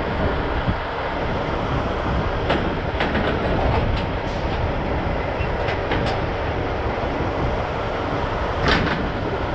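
Semi truck's diesel engine running, heard as a steady rumble from inside the cab, with a few sharp clicks and rattles scattered through it, the loudest near the end.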